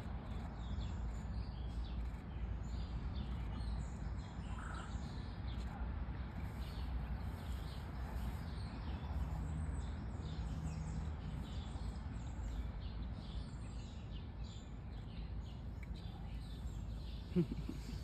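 Birds chirping: many short, high calls come one after another over a steady low background rumble. A single sharp knock sounds near the end.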